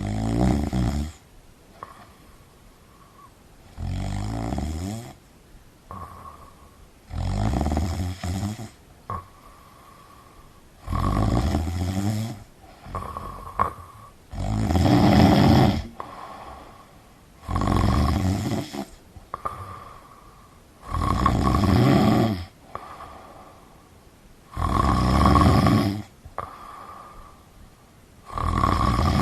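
A person snoring heavily and evenly: nine rough snores, one about every three and a half seconds, each lasting about a second and a half. A faint whistling tone sounds in the pauses between them.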